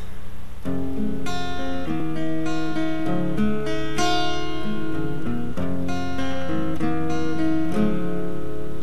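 A guitar strumming chords, the instrumental introduction of a song, starting about half a second in.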